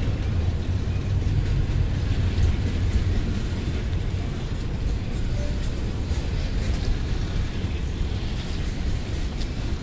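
Long container freight train on standard-gauge track rolling past: a steady low rumble of loaded flatcars' wheels on the rails.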